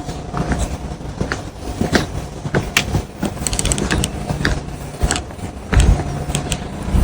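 Irregular clicks and knocks over a faint steady mechanical hum, with one louder low thump about six seconds in.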